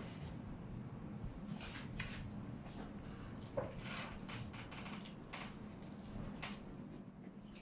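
Faint chewing and lip smacks of someone eating a soft piece of baked crab kani sushi, with a few short soft clicks scattered through.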